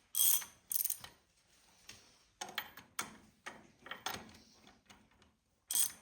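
Hand ratchet wrench clicking through short back-and-forth strokes as a bolt is worked loose. Two loud ratcheting strokes come at the start, lighter scattered clicks follow, and one more loud stroke comes near the end.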